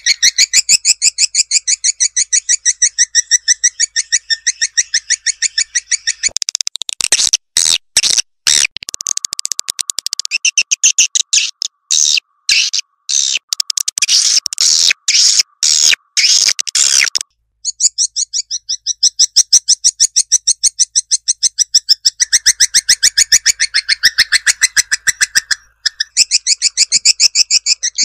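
Swiftlet lure-call playback: rapid, chattering trills of swiftlet calls repeating without pause. From about 6 to 17 s the calls come in choppier runs broken by short gaps, then the steady trilling resumes.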